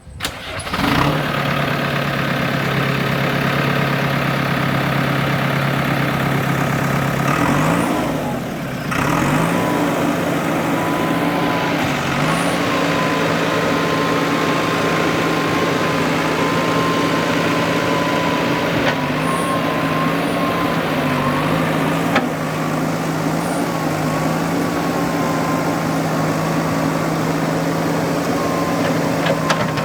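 A JCB backhoe loader's diesel engine running steadily. Its pitch steps up about eight seconds in, and a thin wavering whine runs above it.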